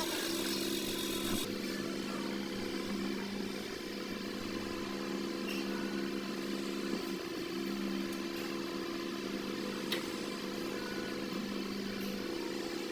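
Microwave oven running with a steady electrical hum, and a faint click about ten seconds in.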